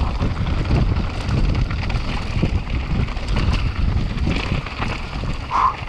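Strong wind buffeting a mountain biker's on-board camera microphone at speed, with a constant clatter of rattles and knocks from the bike on rough ground.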